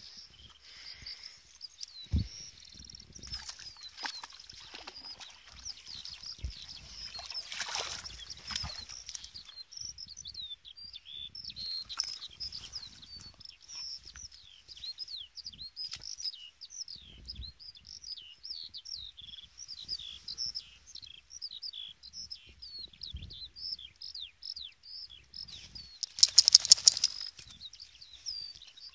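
A songbird singing a long, unbroken run of quick high chirps and trills. Near the end comes a loud, rapid flapping flurry lasting about a second.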